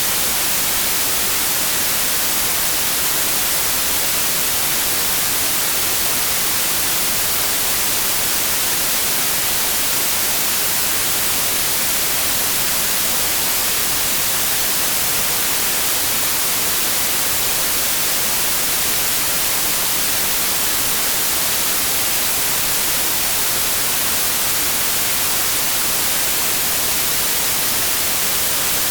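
Steady white noise: an even, unbroken hiss, strongest in the treble, with no change in level.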